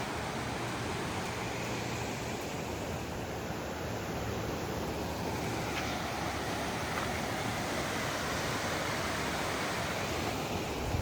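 River water rushing past, a steady, even noise with no breaks.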